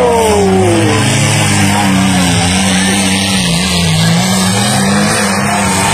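Demolition derby cars' engines running: a steady low drone that wavers a little in pitch, over a loud rushing noise.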